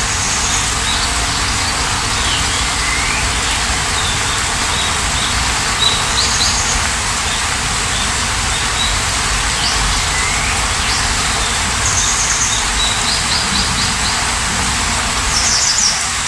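Steady heavy rain with birds chirping and trilling over it, short repeated calls and a few falling whistles throughout.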